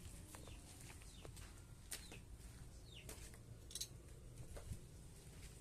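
Faint, scattered short chirps, each falling in pitch, over a low steady hum.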